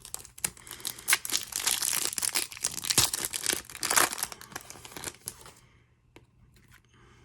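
A trading-card pack's plastic wrapper being torn open and crinkled by hand: dense crackling and tearing for about five and a half seconds, then only a few faint ticks.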